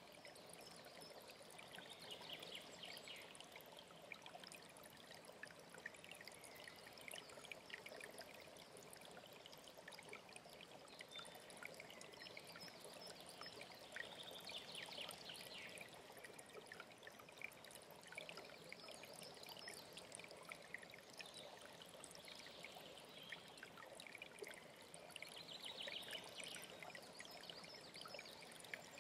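Faint alpine stream flowing and trickling steadily.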